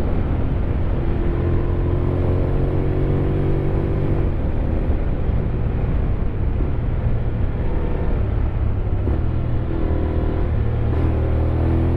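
Honda X-ADV 750's parallel-twin engine pulling along on the road, its pitch climbing slowly through the first few seconds, changing about four seconds in, and climbing again near the end, over a steady low rumble of riding noise.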